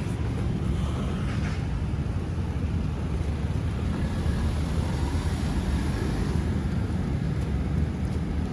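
Steady low vehicle rumble with a noisy hiss above it and some wind on the microphone.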